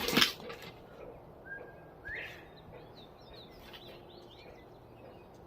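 A sharp knock or clatter right at the start, then a small bird chirping: a rising whistled note followed by a quick run of short high chirps.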